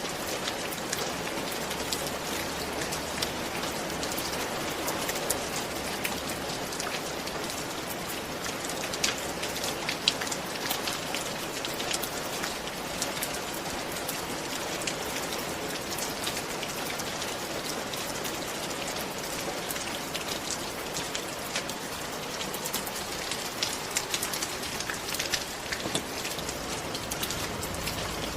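Steady rain falling on a surface, an even hiss with many sharp individual drop ticks and splats scattered throughout.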